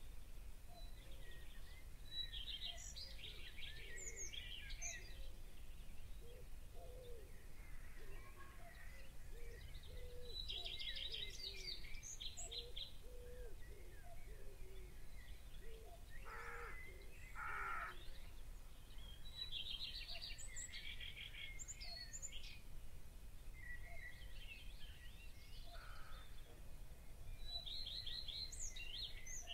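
Birds singing outdoors: a short song phrase with a fast trill comes again about every eight seconds over a low, steady rumble of outdoor background noise. Around the middle, two short harsh calls sound about a second apart.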